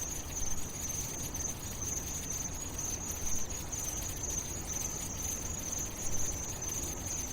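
A steady, high-pitched insect-like chirring, as of crickets, over a low rumble.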